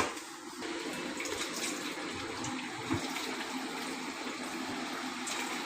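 Chicken pieces sizzling in hot ghee in a kadai while being sautéed with garlic-ginger paste: a steady frying hiss, with a sharp click at the very start and a short knock about three seconds in.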